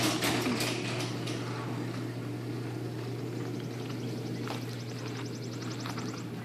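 Liftmaster chain-drive garage door opener running as it closes the garage door: a steady low motor hum with the rumble of the moving door, and a fast even ticking in the last couple of seconds. The motor stops right at the end.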